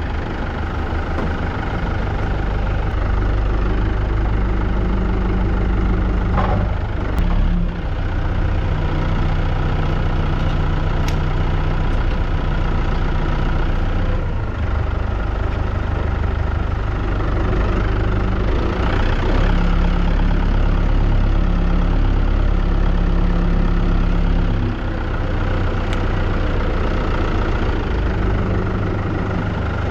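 Compact tractor engine running steadily, its pitch and load shifting now and then as it works.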